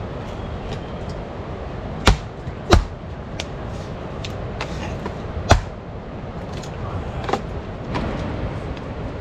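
Several sharp knocks, three standing out above the others, over a steady low rumbling noise.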